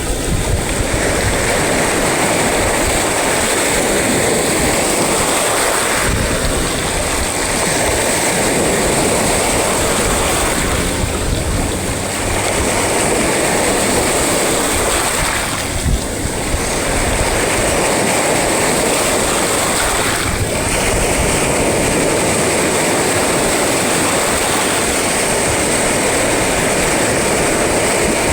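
Sea surf and breaking waves making a continuous loud roar, with an uneven low rumble beneath it.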